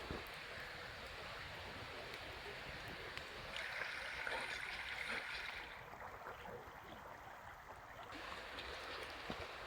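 Campfire burning with a faint steady hiss and scattered light crackles of burning wood.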